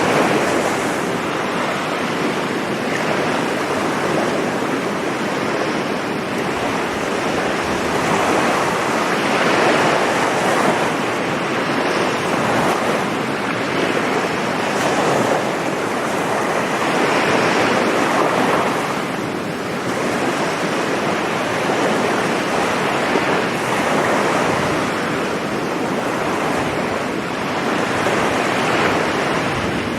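Sea waves breaking and washing onto a beach in a continuous rush of surf that swells and eases every few seconds, with some wind noise on the microphone.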